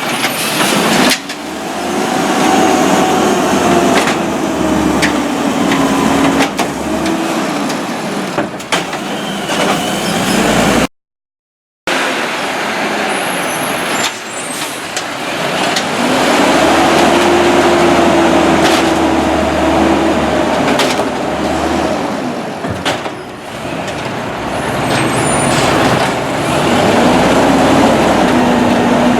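Peterbilt garbage truck engine being revved by hand to drive the Amrep Octo side-loader's hydraulic arm, the pitch rising, holding high and dropping back in several rev cycles, with knocks from the arm and carts. The audio cuts out for about a second partway through.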